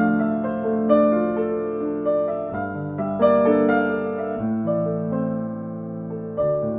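Slow, gentle solo piano music, notes struck one after another and left to ring.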